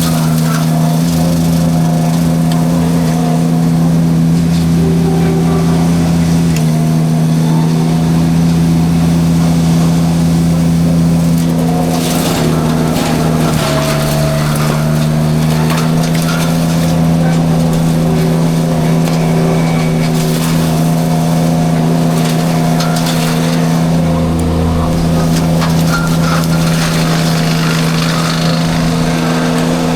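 Derette V1000 mini skid steer engine running steady at high throttle, driving its forestry mulcher drum, with a few bursts of crackling and splintering as the drum chews through brush. Around the middle the engine note sags briefly under load and then recovers.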